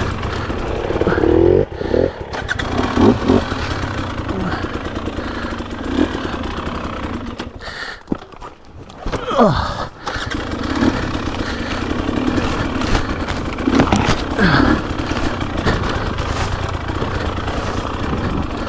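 Dirt bike engine revving up and down as the throttle is worked on and off, with a brief drop-off about eight seconds in before it picks up again.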